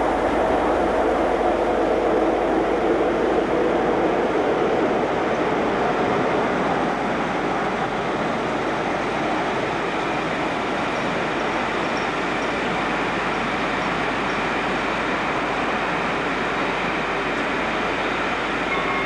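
Class 47 diesel locomotive hauling a train of coaches past: its engine note is loudest in the first few seconds, then gives way to a steady rumble of coach wheels on the rails as the train rolls by.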